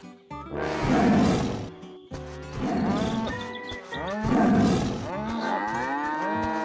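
Three loud, rough animal-call sound effects (cartoon buffalo and tiger calls) over background music, the first about half a second in and the last ending about five seconds in.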